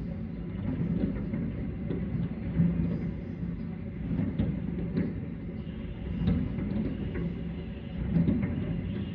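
Aerial fireworks going off in quick succession: a continuous rolling rumble of booms with sharper bangs standing out every second or so.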